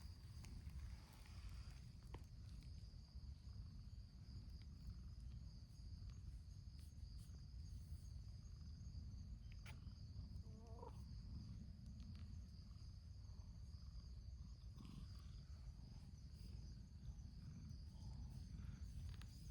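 Quiet outdoor ambience: a steady low rumble and a steady high-pitched hum, with a few faint clicks. About eleven seconds in there is one faint, short, wavering cat meow.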